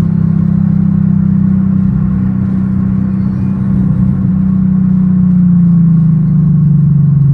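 Car engine droning at a steady speed, heard from inside the cabin, its pitch easing slightly lower near the end.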